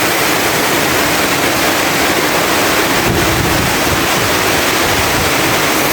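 Heavy typhoon rain pouring down steadily, with wind buffeting the microphone.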